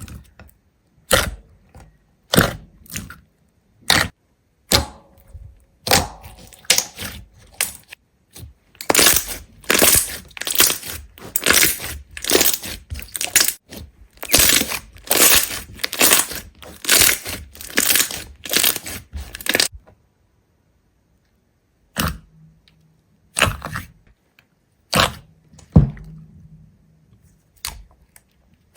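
A run of sharp cracks and crunches, something brittle being broken or crushed: spaced out at first, coming thick and fast for about ten seconds in the middle, then a pause and a few scattered cracks.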